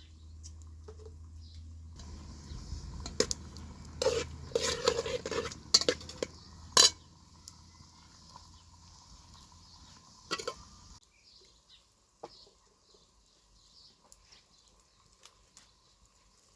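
Cooking utensils and cookware clinking and knocking, with a cluster of sharp metal clinks between about three and seven seconds in and one more near ten seconds. A low steady hum underneath stops suddenly about eleven seconds in.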